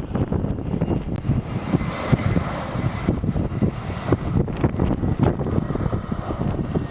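Wind buffeting the microphone in heavy gusts. A jet airliner's engines are heard faintly underneath, with a thin steady whine coming in about two seconds in.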